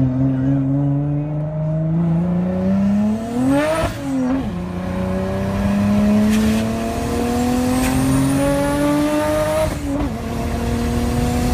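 Turbocharged Honda J35 V6 in Bisimoto's Honda Odyssey minivan, heard from inside the cabin, accelerating hard. The revs climb, drop sharply at an upshift about four seconds in, climb again, and drop at a second upshift near the end. A high turbo whistle rises with the revs.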